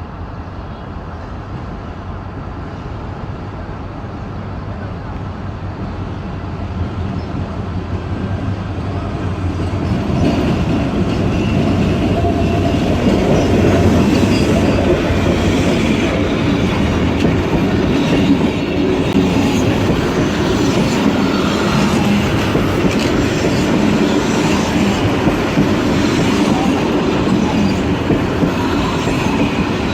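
Henschel diesel locomotive hauling a passenger train into the station: the rumble grows louder over the first ten seconds as it approaches, then the train rolls past with steady wheel clatter over the rail joints.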